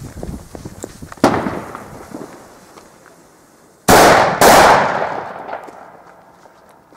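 Firecrackers going off: one bang about a second in, then two louder bangs about half a second apart, each trailing off in a long echo.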